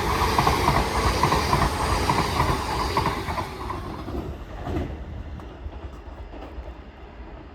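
Class 802 train passing through the station without stopping: a loud rush of wheels on rail with clickety-clack. It fades away over the second half as the train goes by.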